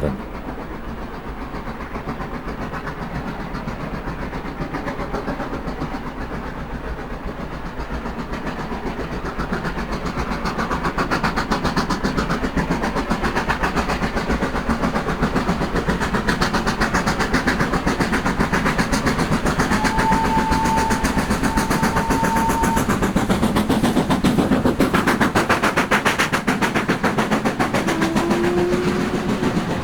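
Steam locomotive working hard up the 1 in 37 Lickey incline with a banker, its exhaust beating rapidly and growing louder as the train approaches. Two short whistle notes of different pitch sound, a higher one about two-thirds of the way in and a lower one near the end.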